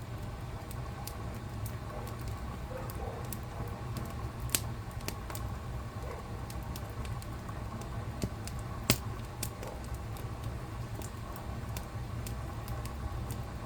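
Wood fire crackling in a fireplace: a steady low rumble of burning with frequent small irregular crackles, and two louder pops, about a third of the way in and again about two-thirds in.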